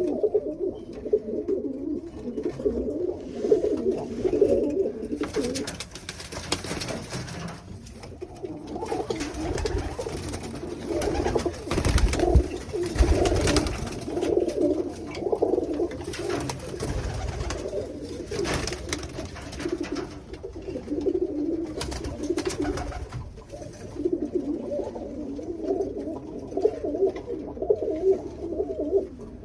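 A group of tippler pigeons cooing continuously in a loft. Through the middle there is a stretch of rustling and a few knocks, with a low rumble about twelve seconds in.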